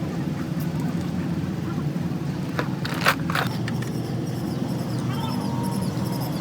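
A vehicle engine running steadily as a low rumble, with a quick cluster of sharp knocks about three seconds in.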